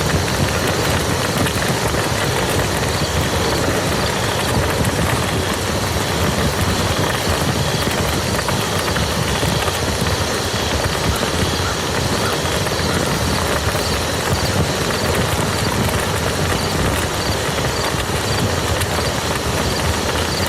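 Steady rain falling onto a muddy field: an even, unbroken hiss of many small drop impacts.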